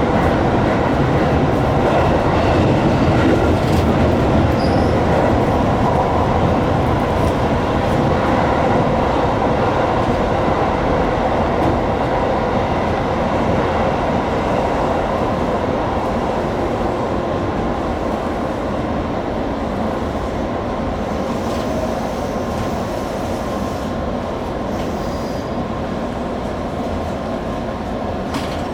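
205 series electric train running along the track: a steady rolling rumble of wheels on rails, easing slightly in loudness toward the end.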